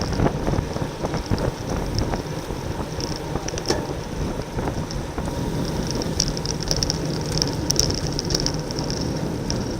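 Wind rushing over the microphone of a camera riding along on a racing bicycle, with steady rolling road noise. An intermittent high-pitched buzz comes and goes, thickest a little past the middle.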